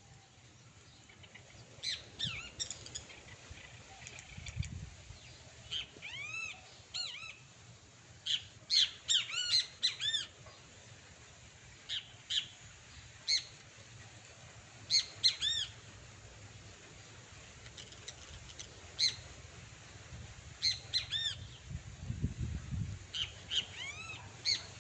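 Great kiskadees calling: short, harsh, arched notes given in quick clusters of several calls, with the loudest runs about nine to ten seconds in and again around fifteen seconds.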